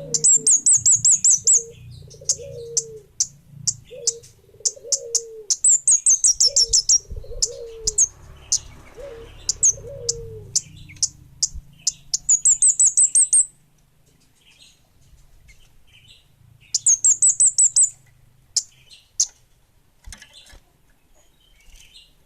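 Kemade bunga api songbird singing vigorously: sharp high chirps over and over, broken by fast high trills of about eight notes at the start, around six seconds in, around twelve seconds in and around seventeen seconds in. Lower short falling calls repeat about once a second through the first half, and the bird goes sparser and quieter after about fourteen seconds.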